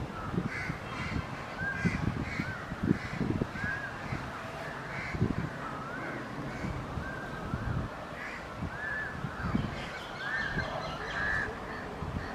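Birds calling over and over, short arching calls about once or twice a second, over a low uneven rumble.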